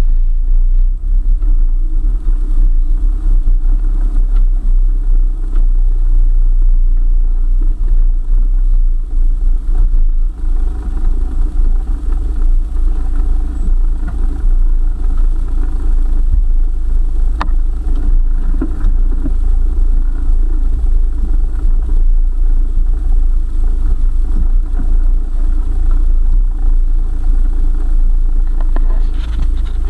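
A four-wheel-drive vehicle driving on a forest track: its engine runs steadily under a loud, heavy low rumble, with an occasional knock.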